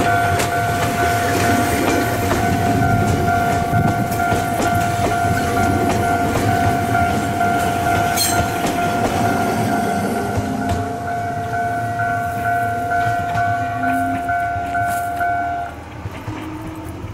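Ohmi Railway electric train moving off and running past, its wheels clattering over the rail joints. A steady ringing tone and a pulsing higher tone sound with it and stop about a second before the end, and the train noise then fades.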